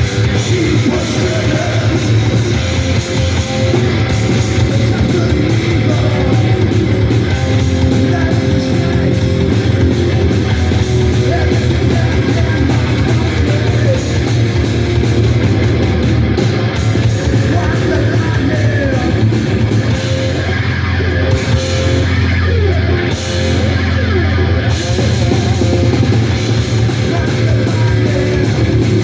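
Live rock band playing a loud, heavy rock song: distorted electric guitars, bass and drums.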